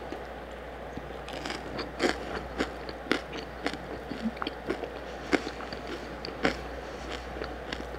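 Close-up chewing of a mouthful of feijão tropeiro: a string of short, sharp mouth clicks and bites, starting about a second in, over a steady hiss of heavy rain.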